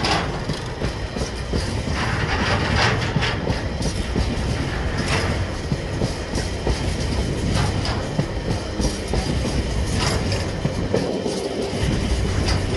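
Freight train of empty container flat wagons rolling along the track, heard from aboard: continuous wheel-on-rail rumble with clickety-clack over the rail joints and a few sharp clunks. A steady high tone comes in near the end.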